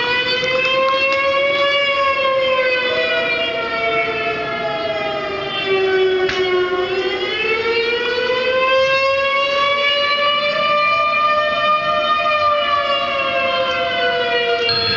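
Recorded siren played through computer speakers, a long wail rising and falling slowly in pitch, with a dog howling along in long drawn-out howls.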